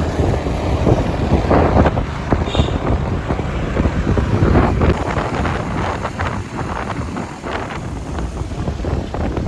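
Loud wind buffeting the microphone: a gusty low rumble that starts suddenly at a cut and carries on unevenly.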